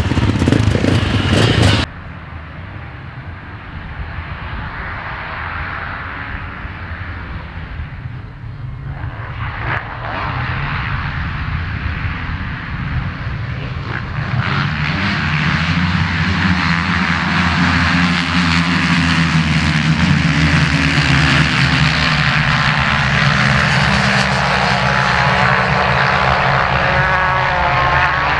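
Motocross bikes racing round a track, their engines a steady drone heard from a distance that grows gradually louder. About two seconds in, louder close-up engine noise cuts off abruptly.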